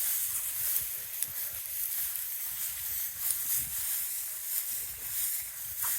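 Outdoor background: a steady hiss with wind buffeting the microphone in uneven low gusts, and a few faint ticks and rustles.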